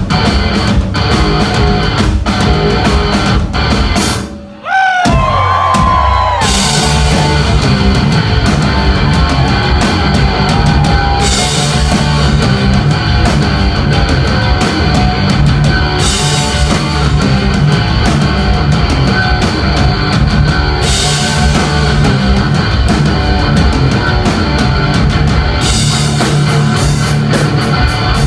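Live heavy rock band playing loud and dense, with distorted electric guitar leading over drums and bass. About four seconds in the band drops out briefly while the guitar slides a few notes in pitch, then the full band comes back in.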